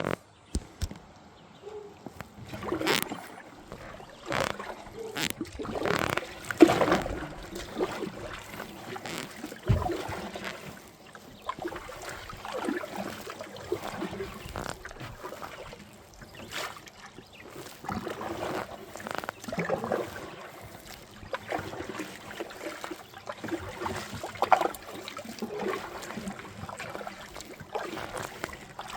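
Kayak paddle dipping and pulling through river water, a run of irregular swishing splashes one every second or two.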